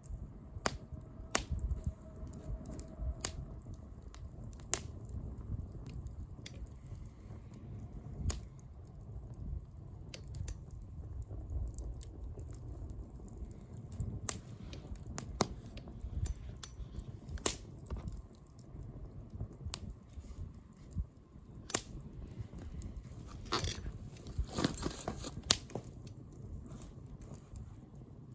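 Wood bonfire crackling: irregular sharp pops and snaps of burning wood over a low, steady rumble of flame, with a denser burst of hissing crackle near the end.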